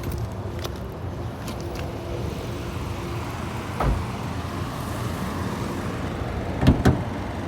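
Steady low vehicle rumble, with a knock about four seconds in and a double knock near the end.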